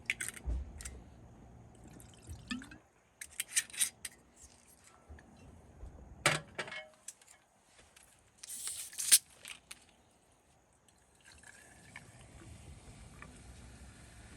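Small objects being handled, making sharp clicks and knocks, with liquid being poured and dripping. A short rush of noise about two-thirds of the way in ends in a sharp click.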